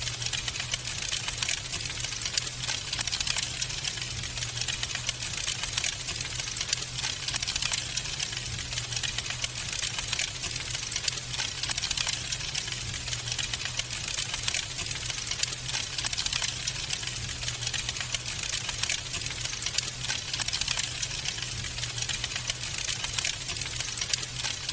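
Wood fire burning in a fireplace, crackling steadily with dense, irregular pops and snaps over a faint low hum.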